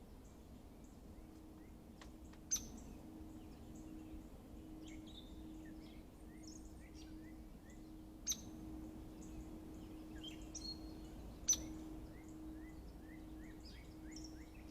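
Wild birds chirping in the background, with a run of short rising notes near the end. Three sharp clicks, one about two and a half seconds in, one about eight seconds in and one about eleven and a half seconds in, stand out as the loudest sounds, over a faint steady hum.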